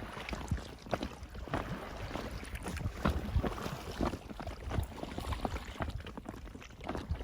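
Paddling an inflatable kayak: irregular splashes of the paddle and water slapping against the hull, with wind rumbling on the microphone.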